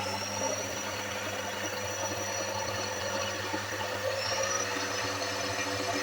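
Electric motor running steadily, with a low hum and a thin high whine over it.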